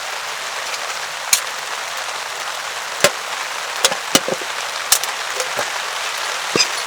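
Heavy rain falling steadily as a dense hiss, with scattered sharp ticks of single drops or crackles every second or so.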